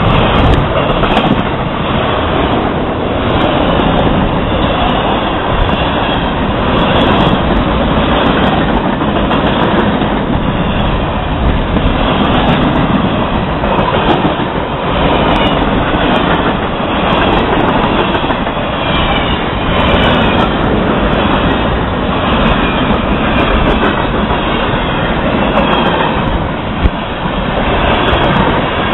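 Florida East Coast Railway freight train passing at speed, a steady loud rumble of steel wheels on rail with clattering over the joints. One sharp knock stands out near the end.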